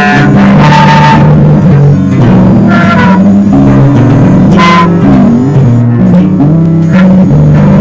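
Instrumental band music: a low line of held and sliding bass notes with plucked strings and percussive strokes over it.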